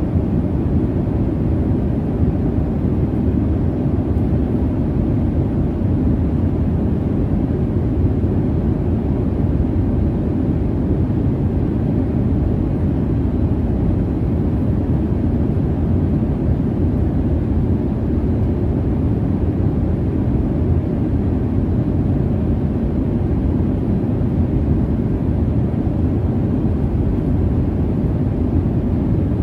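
Jet airliner cabin noise in cruise: a steady, deep rumble of engine and airflow with no changes or distinct events.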